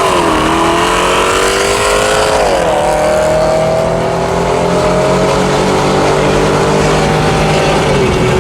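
V8 pickup truck engine pulling hard at full throttle, its pitch climbing steadily and dropping sharply with gear upshifts just after the start, about two and a half seconds in and near the end.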